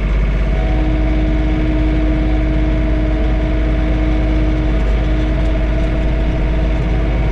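John Deere 3046R tractor's three-cylinder diesel engine running steadily with the PTO-driven snowblower engaged, heard from inside the closed cab as a constant low drone with a steady hum.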